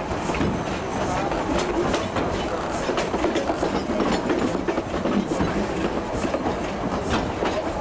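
Passenger coach of a steam excursion train rolling over jointed track, its wheels clacking over the rail joints about once a second above a steady running rumble.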